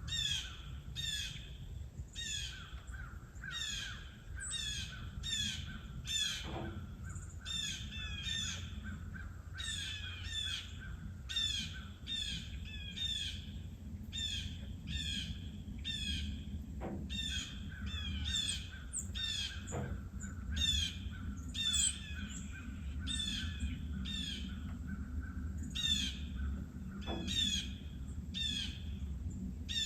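Small birds calling loudly and repeatedly, short harsh calls about twice a second, over a low steady background rumble.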